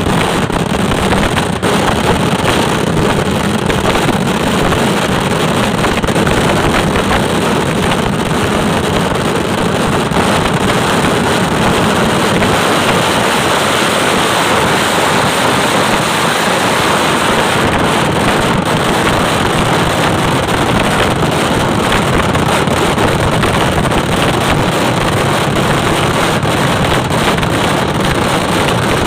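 Dense, continuous barrage of firecrackers, the bangs coming so fast they run together into one loud, steady crackling roar.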